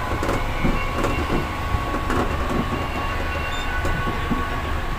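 A moving train heard from inside the carriage: a steady low rumble of the wheels and running gear, a constant whine, and scattered light rattles and clicks.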